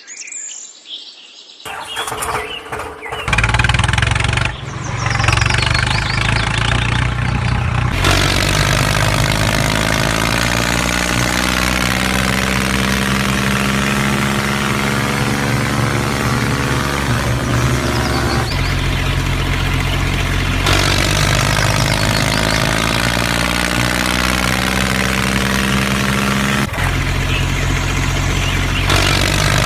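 A small engine starting up about three seconds in, then running steadily. Its tone changes abruptly a few times.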